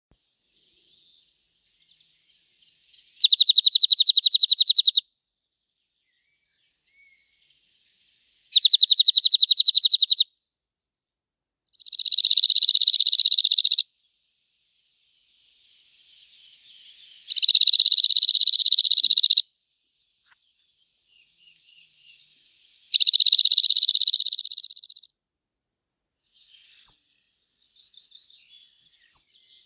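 A small songbird singing a fast, dry trill on one pitch, about two seconds long. It repeats five times with pauses of a few seconds, and near the end there are two brief high chirps and a few faint calls.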